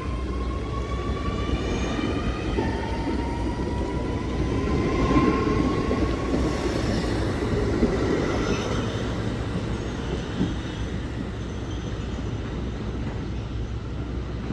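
R211S subway train pulling out, its electric traction motors giving a slowly rising whine over a steady rumble of wheels on rail that grows louder midway as the cars pass.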